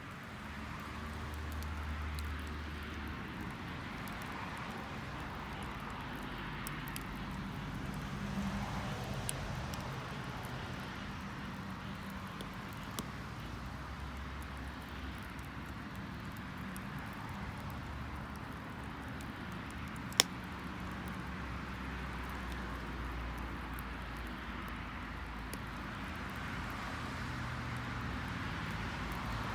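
Wood bonfire burning, with scattered small crackles and one sharp pop about two-thirds of the way through, over a steady low rumble.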